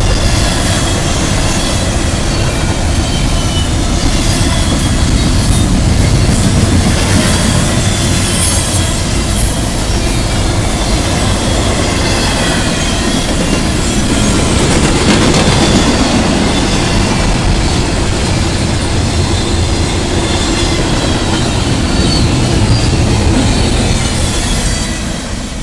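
Double-stack intermodal container cars of a freight train rolling past close by: steel wheels rumbling and clacking on the rails, with a thin wavering wheel squeal over the top. The sound falls away near the end as the last car passes.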